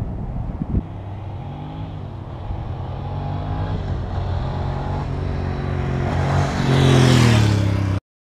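Ducati 750 Sport's air-cooled L-twin engine running and growing steadily louder, loudest about seven seconds in, then cut off abruptly.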